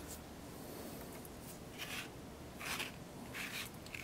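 Faint rubbing and rustling from hands handling wires and crimp connectors, with a few soft scrapes about two, two and a half, and three and a half seconds in.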